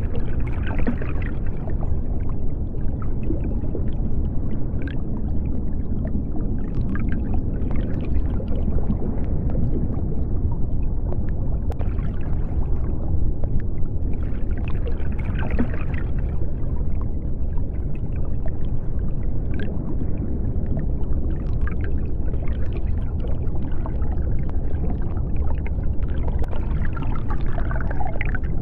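Underwater ambience: a steady deep rumble with brief gurgling and bubbling every few seconds.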